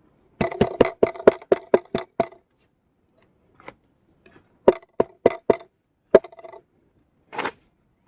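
Knife chopping on a cutting board, in quick even strokes at about four to five a second. There is a run of about nine strokes, a pause, four more and a single stroke, then a brief scrape near the end.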